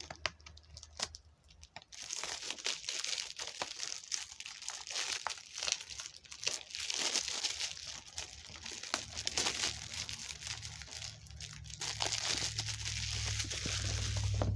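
Plastic shrink-wrap being torn open and crinkled as it is peeled off a DVD case: a few clicks at first, then about two seconds in, continuous crackling and crinkling with sharp snaps.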